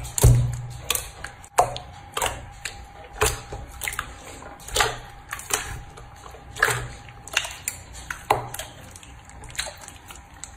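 Slime being squeezed and poked by hand, giving a string of sharp, wet pops and clicks at uneven spacing, about one or two a second, over a faint steady hum.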